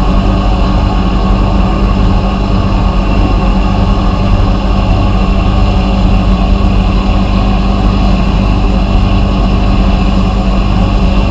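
Vapor blasting equipment running steadily: an even hiss with a steady hum under it.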